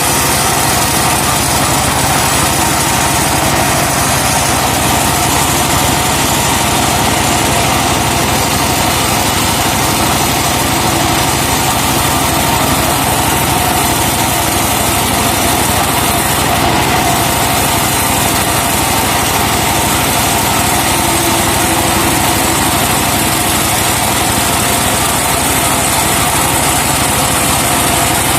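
Engine of a truck-mounted sawmill running steadily at an even speed, with no revving up or down.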